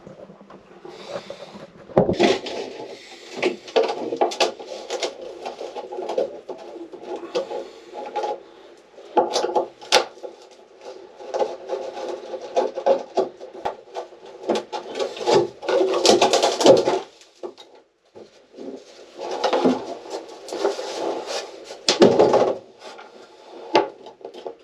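Oscillating multi-tool cutting through wooden boat interior panelling in stop-start bursts, with sharp cracks and knocks of wood between the cuts.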